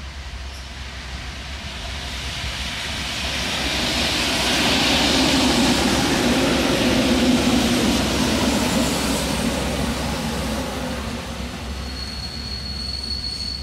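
EN57 electric multiple unit passing by: the rumble of its wheels and running gear grows to a peak midway and then fades. A high, steady wheel squeal sets in near the end.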